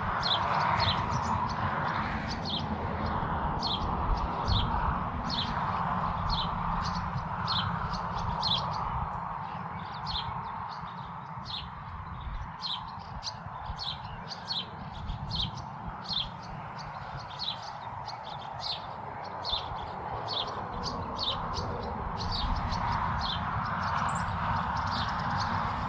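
Birds chirping, short high chirps that drop in pitch, often in pairs and about one a second, over a steady low rumble.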